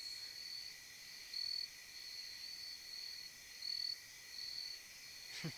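Crickets chirping faintly: short, high-pitched trills repeating every half second or so, over a steady high insect hum.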